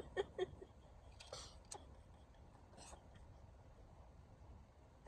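Quiet room tone with a few faint, short clicks scattered through it.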